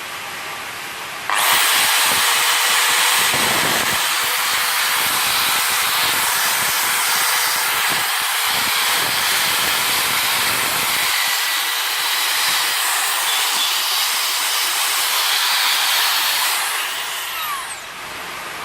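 Loud, steady hiss of a high-pressure jet, starting abruptly about a second in and holding evenly, then dying away near the end with a falling whine.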